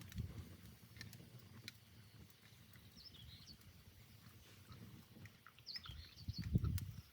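Faint bird chirps in two short flurries, with a few low, dull thumps near the end.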